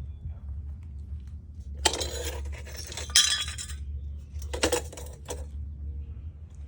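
Hard objects clinking and rattling in two stretches, the first about two seconds long and the second shorter, over a steady low rumble.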